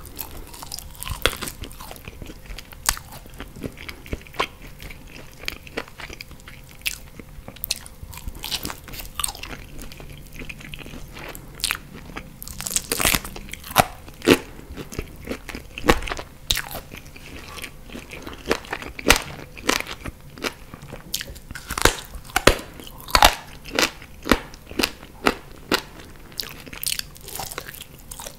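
Biting and chewing chicken wings in pizza sauce with cheese, close to the microphone: irregular sharp crunches and clicks of the mouth, coming thicker and louder in the second half.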